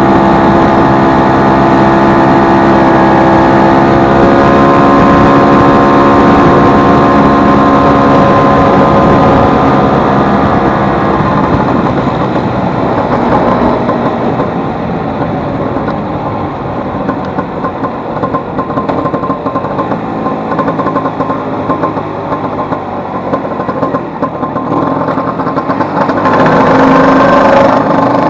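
Vespa 150's single-cylinder two-stroke engine running under way at a steady speed, its engine note clear and even. About halfway through it drops back to a rougher, quieter running, then rises again near the end as the throttle opens.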